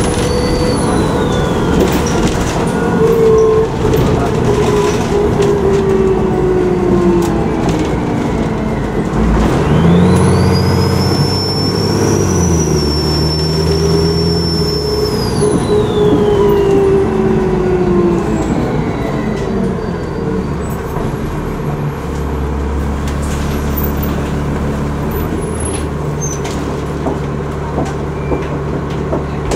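Alexander Dennis ALX400 double-decker bus's diesel engine with its turbocharger whistling: a high whistle dies away in the first couple of seconds, then rises again about ten seconds in as the engine pulls, holds and falls away a few seconds later, with the engine and transmission note gliding up and down beneath it. Over the last several seconds the engine settles to a steady lower note.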